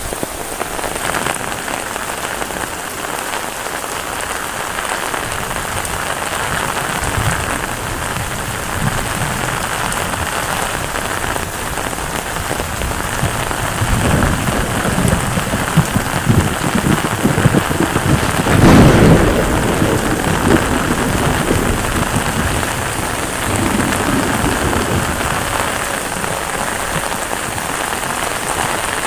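Heavy rain falling steadily, with a low rumble of thunder that swells through the middle and fades away.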